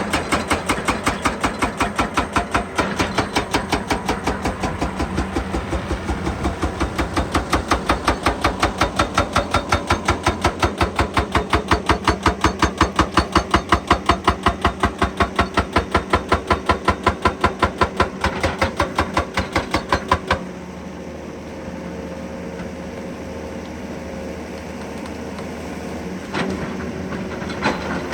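Excavator's hydraulic breaker hammering in a rapid, even rhythm of about four blows a second. It stops suddenly about twenty seconds in, leaving the engine running steadily.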